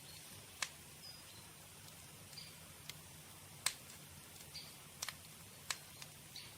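Wood campfire crackling: sharp, irregular pops and snaps, about seven in all, over a faint steady background.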